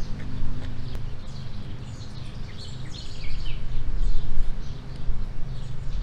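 Birds chirping outdoors, a flurry of short chirps around the middle, over a steady low hum, with a single light click about a second in.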